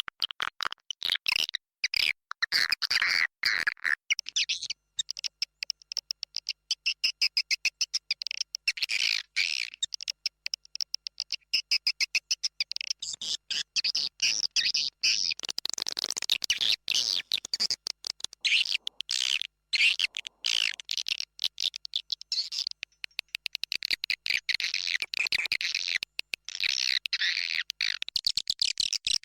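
Swiftlets calling: a dense, unbroken stream of rapid, high, chattering chirps. This is a swiftlet lure call ('suara panggil walet', roosting-call version) of the kind played to draw swiftlets into a nesting house.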